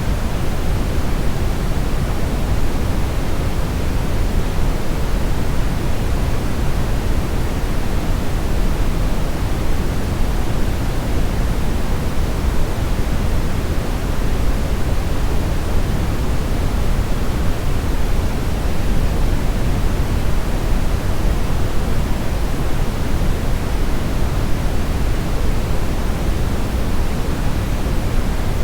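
Steady brown noise: a deep, even hiss weighted toward the bass, with no changes or events.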